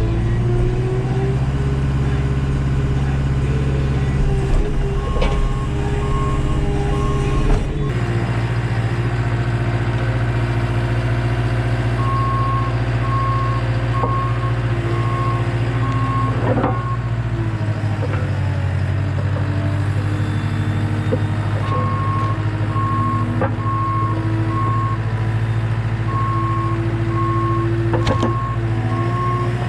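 Skid steer engine running steadily, its note shifting a couple of times, with the reversing alarm beeping in three runs at about two beeps a second as the machine backs up. A few sharp knocks come in between.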